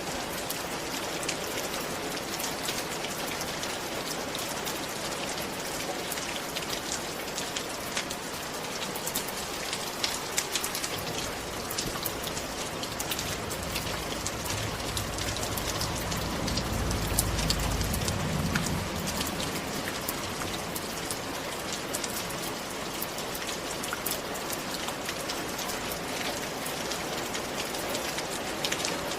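Steady rain falling on a surface, with many fine, distinct drop patters. Around the middle a low rumble swells up and fades away over several seconds.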